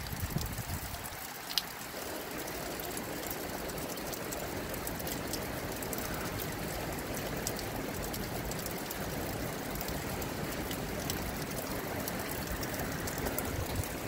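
Steady rain, an even hiss with scattered sharp drop ticks, and brief wind buffeting on the microphone in the first second.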